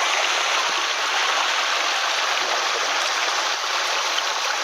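Small mountain headwater stream running: a steady, even rush of water.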